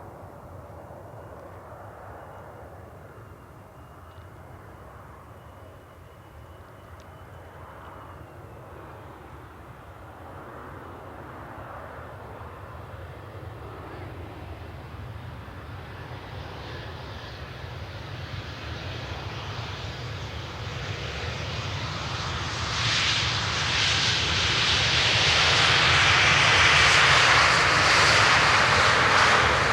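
Jet airliner engines growing steadily louder as the aircraft approaches, a low rumble and a broad roar building over about twenty-five seconds and loudest near the end. A faint steady high whine is heard in the first few seconds.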